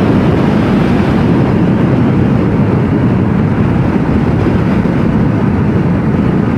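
Steady riding noise from a Yamaha MT-07 motorcycle on the move: wind rush over the microphone mixed with the engine running at a constant speed, with no gear changes or revving.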